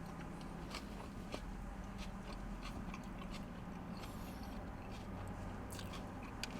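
A person chewing a mouthful of Whopper burger close to the microphone, with scattered small clicks of the mouth over a faint low hum.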